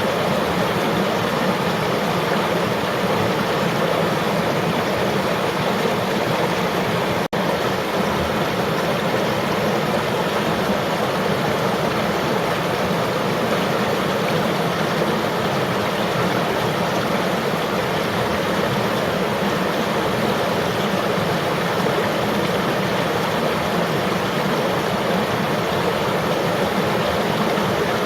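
River water flowing and rushing in a steady, even wash of sound, with a split-second dropout about seven seconds in.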